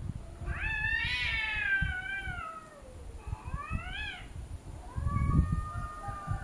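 Domestic cats caterwauling at each other in a standoff. A long yowl rises and then sinks, a shorter rising yowl follows, and a lower, held yowl starts near the end.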